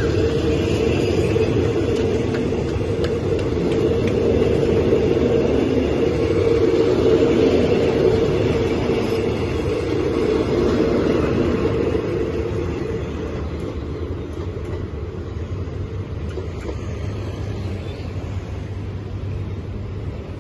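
Passenger coaches of an express train rolling past on the rails as it pulls out of the station, a steady rumble that fades about twelve seconds in as the last coach moves off down the line.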